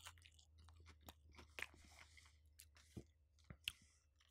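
Faint chewing of a Popeyes fried chicken drumstick, with scattered, irregular crisp crunches and mouth clicks as the breading is bitten and chewed.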